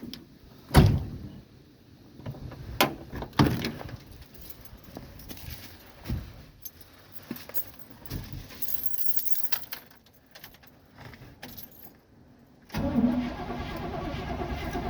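Clicks and knocks of keys and truck-cab handling, then, near the end, the starter cranking the 1971 Chevy C10's engine in a steady, pulsing run. It is a cold start at 22 °F with no choke set, and the engine does not catch.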